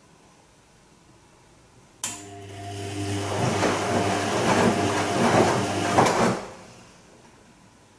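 Bosch Serie 2 VarioPerfect washing machine working in its Silk programme: a hum with a water-like rush comes on suddenly about two seconds in, grows louder, and cuts off about four seconds later.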